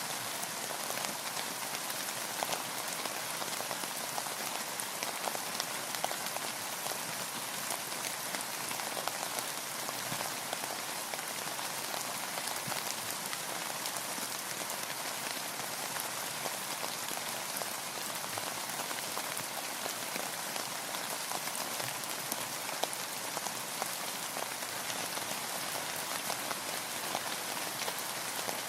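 Steady rain falling on a boat: an even hiss dotted with many small, quick drop ticks.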